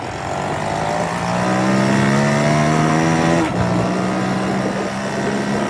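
Honda C70 motorcycle's small single-cylinder four-stroke engine pulling under way. Its pitch climbs, then drops at an upshift right at the start and again about three and a half seconds in, after which it runs steady. The engine is running smoothly.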